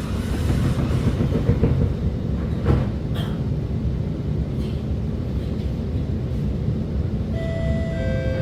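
Steady low rumble inside an Alstom Movia R151 metro carriage, with a sharp knock a little under three seconds in. Near the end, several steady pitched tones come in and hold.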